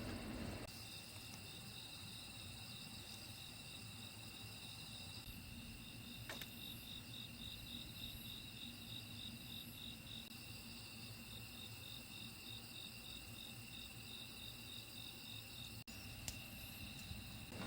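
Insects calling: a steady high trill with a pulsed chirp over it, about three pulses a second.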